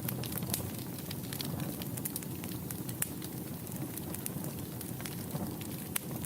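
Wood fire burning in a fireplace: a steady low rush with irregular sharp crackles and pops, one of them louder about three seconds in.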